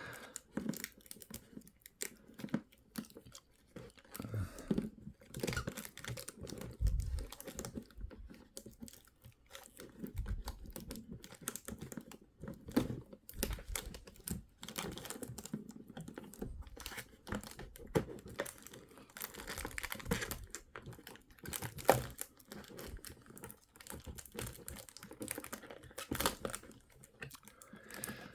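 Toy packaging being opened by hand: irregular crinkling of plastic, tearing of sticky tape and scattered small clicks.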